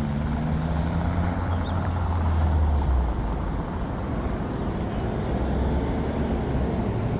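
Street traffic with a heavy vehicle's engine passing close by. Its low engine hum is loudest in the first three seconds, then eases into the steady traffic noise.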